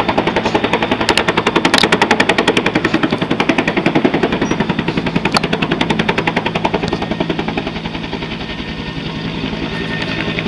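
Helicopter rotor chopping in a fast, even beat over a steady engine hum. It eases off slightly about two-thirds of the way through.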